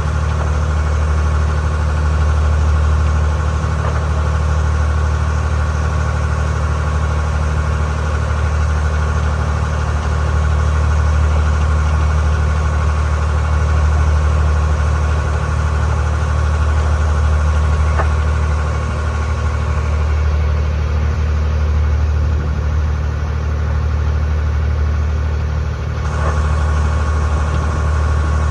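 A passenger ferry boat's engine running steadily with a low, even drone.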